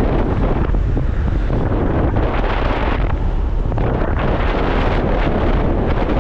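Loud, steady wind noise buffeting the microphone of a motorcycle on the move, with low engine and road noise underneath.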